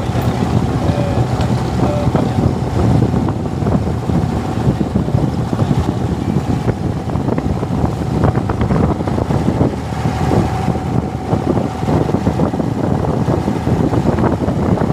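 Boat engine running steadily under way, with the rush of water and wind around the hull.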